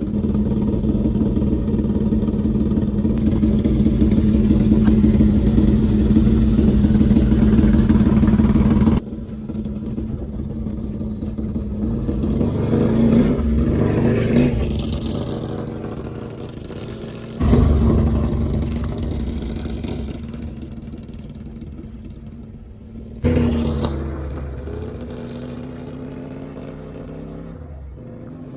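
Custom chopper motorcycle's home-built three-cylinder W3 engine running and revving. The sound changes abruptly about a third and two thirds of the way through, as shots change, and the pitch rises and falls as the engine revs or the bike goes by.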